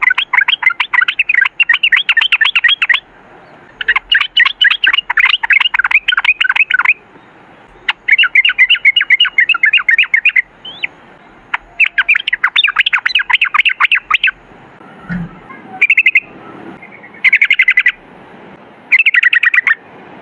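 Yellow-vented bulbul (trucukan) singing long, rapid chattering phrases of quick repeated notes. Each of the first four runs lasts two to three seconds with short pauses between, and the phrases become shorter bursts in the last few seconds.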